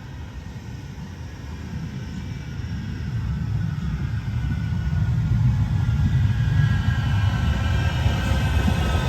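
Manchester Metrolink tram approaching: its low rumble grows steadily louder, and a faint whine joins in near the end.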